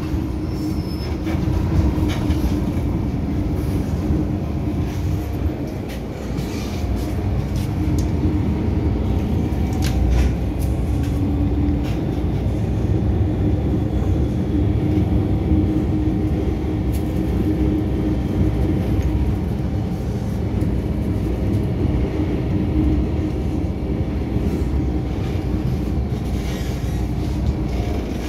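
MTR M-Train running on the Island Line: a steady rumble of wheels and running gear with a held hum, and a few short clicks from the track.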